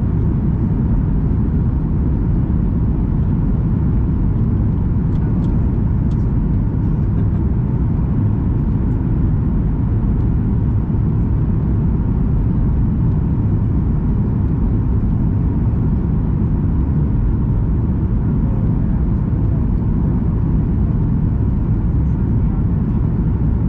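Steady in-flight cabin noise of a Boeing 737 MAX 8 on descent: a constant low rumble of engines and rushing air, heard from inside the cabin.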